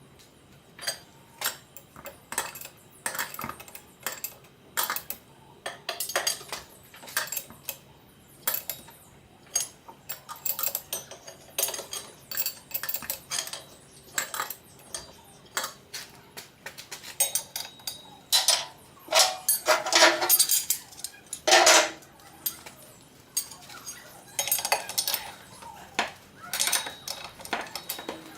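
Metal hand tools and car parts clinking and clanking in irregular sharp knocks, louder and more frequent a little past the middle.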